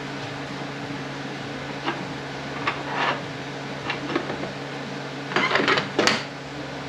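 Metal parts of an Aisin Warner AW30-80LE automatic transmission clinking and knocking as they are handled and set down: a few scattered clinks, then a quick cluster of knocks about five to six seconds in, over a steady hum.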